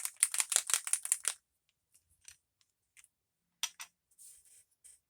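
A small bottle of ink reinker shaken hard, rattling at about eight strokes a second and stopping about a second and a half in. A few faint clicks and taps follow.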